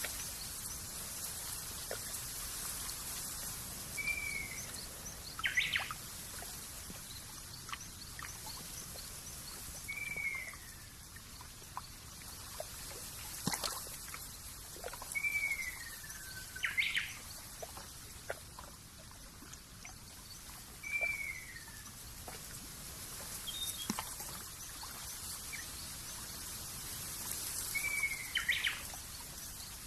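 Outdoor nature ambience of birds calling: a short falling call repeats about every five to six seconds among other brief chirps, over a steady high hiss.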